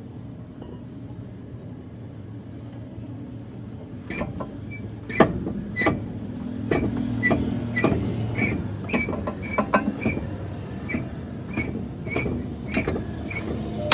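Hammer blows on steel, about two ringing metallic strikes a second starting about four seconds in, with the loudest early in the run, as work goes on at a truck's front axle king pin. A steady low hum, like a nearby engine running, lies underneath.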